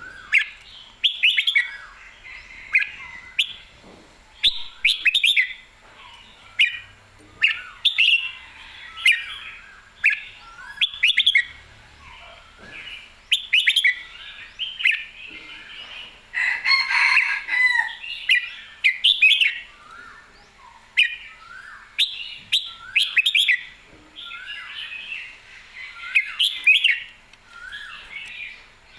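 Red-whiskered bulbul singing: short, quick, gliding whistled phrases repeated about once a second, with a busier, louder stretch a little past halfway. It is the lively full song of a cage bird in competition form.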